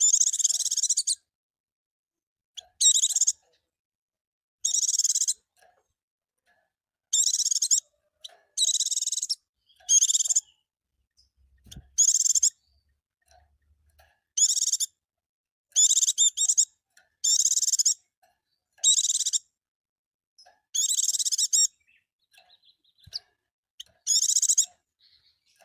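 Pleci (white-eye) singing: about a dozen short, high-pitched song phrases, each under a second or so, broken by pauses of one to two seconds.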